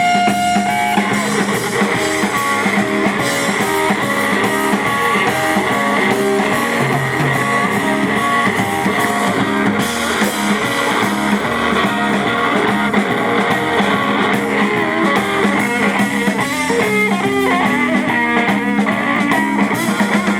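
Live blues-rock band playing an instrumental break: electric guitar lead lines over bass guitar and drum kit.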